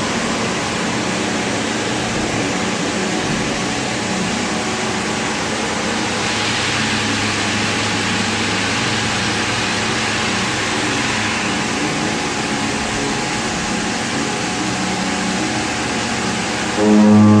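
XYZ 1020 vertical machining centre face milling with a Korloy RM16 face mill: a steady, hissing machining noise. It grows brighter and harsher from about six to eleven seconds in, and a strong humming tone sets in near the end.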